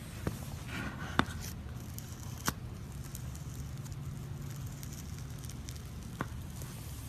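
Slime being handled: soft crackling with four sharp pops, the loudest about a second in.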